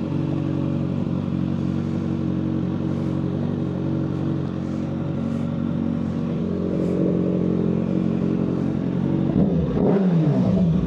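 Kawasaki ZX-6R 636 inline-four with a Yoshimura full header exhaust idling steadily. Near the end comes a quick throttle blip, with the revs falling back toward idle.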